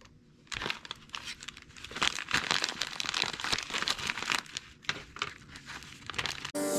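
A mailing package being torn and crinkled open by hand, an irregular stream of rustling and crackling. Music comes in near the end.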